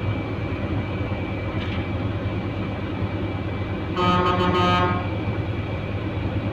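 Truck engine running steadily, with a vehicle horn sounding once for just under a second about four seconds in.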